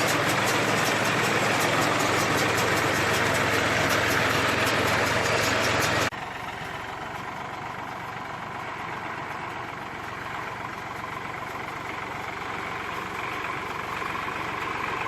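Tractor-driven straw baler and its tractor engine running, with a fast, even clatter from the machinery. About six seconds in the sound drops abruptly to a quieter, steady engine running that slowly grows louder.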